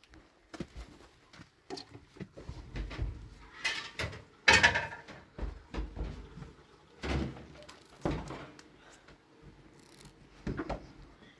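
Irregular knocks, thuds and short scrapes, as of objects being handled and set down, the loudest about four and a half seconds in.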